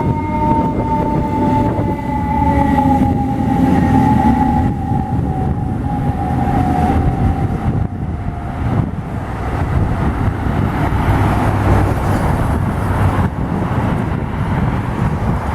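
Fire truck going by, its siren tone falling slowly in pitch and dying away about halfway through, over heavy low diesel engine rumble and road noise that carry on.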